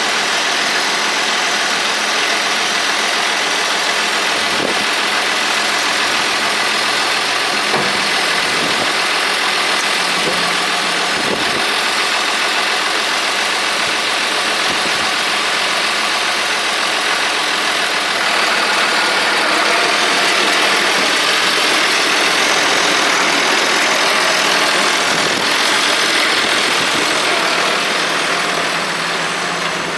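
1976 International 1086 tractor's turbocharged six-cylinder diesel engine running steadily, growing slightly louder a bit past halfway.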